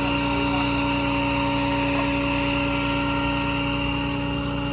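A steady engine drone, one constant pitch with overtones over a noisy rumble, unchanging throughout.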